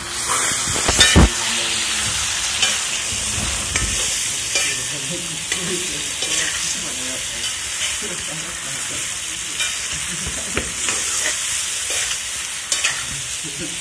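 Chicken and potato pieces frying and sizzling in a metal wok, stirred with a spatula that scrapes and knocks against the pan. The sizzle is loudest about a second in.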